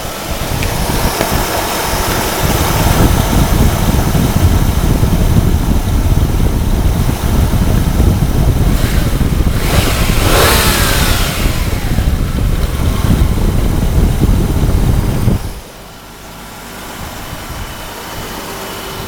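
2002 Hyundai Sonata engine running loudly, rising and falling in revs. About 15 seconds in it drops suddenly back to a quieter steady idle.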